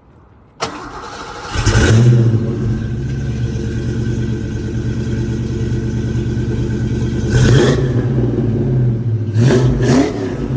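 1990 Fox-body Ford Mustang engine through a full BBK exhaust, starting up: a short burst of cranking about half a second in, the engine catching about a second and a half in, then a steady loud idle. The throttle is blipped once about seven and a half seconds in and twice in quick succession near the end.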